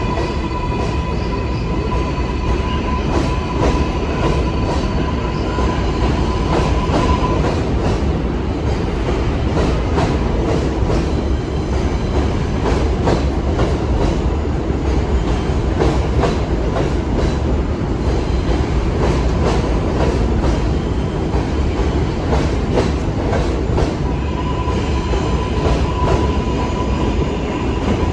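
R142/R142A subway train running on the rails. A steady high whine sounds for the first several seconds and again near the end, with rapid clicking of the wheels over the rail joints throughout.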